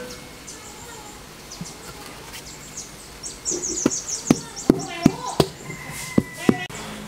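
Birds chirping rapidly, with a run of about seven sharp knocks in the second half.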